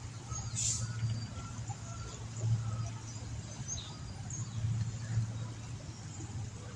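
Scattered short bird chirps over a steady low hum, with a brief hiss about half a second in.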